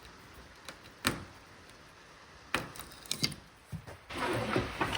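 A few separate knocks and clatters of hard objects being handled, then a steady hissing noise that starts about four seconds in.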